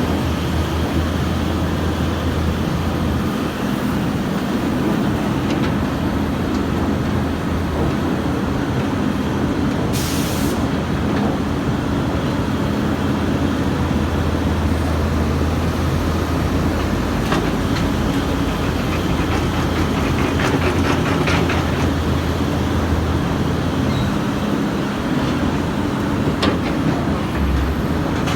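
Excavator's diesel engine running steadily at a work site, with a short hiss about ten seconds in and a run of light metallic clicks and clanks later on.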